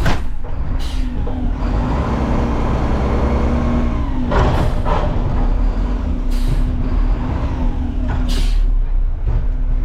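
Garbage truck's diesel engine running steadily, with about five short hisses of compressed air.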